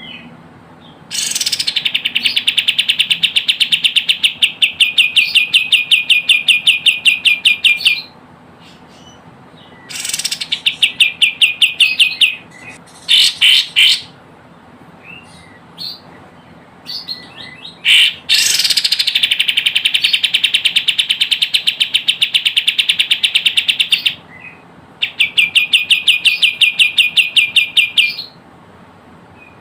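Kapas tembak bird calls from a lure recording: long rapid trills of repeated high notes in bouts of several seconds, with brief pauses between them.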